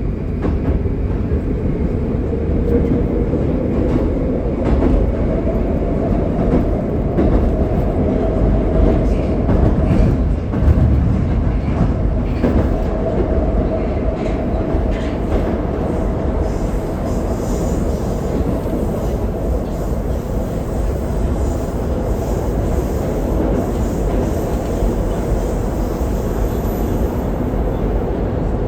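81-761 'Oka' metro car running between stations, heard from inside the car: a steady loud rumble of wheels on rail, with scattered clicks over the rumble.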